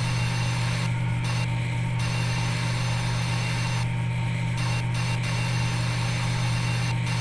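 A steady low hum with a hiss over it, the hiss cutting out briefly several times.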